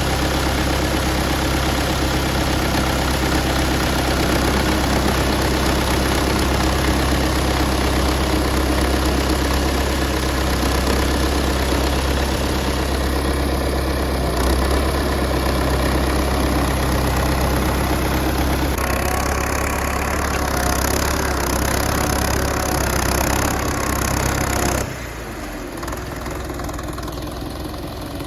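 Belarus tractor's diesel engine running steadily while pulling a harrow. The sound drops suddenly in level about 25 seconds in.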